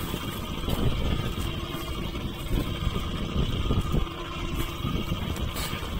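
Steady low, fluttering rumble with a hiss above it, the background noise aboard a small outrigger fishing boat at sea.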